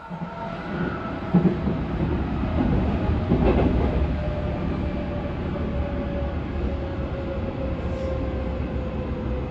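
Running noise inside a JR Central 211 series 5000-subseries electric train car: a steady rumble of wheels on rail that grows louder over the first second or two, with a few knocks between about one and a half and four seconds in. A thin humming tone slowly falls in pitch as the train slows.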